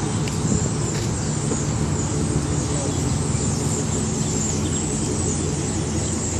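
A motor vehicle's engine running steadily, a constant low hum under broad road or cabin noise.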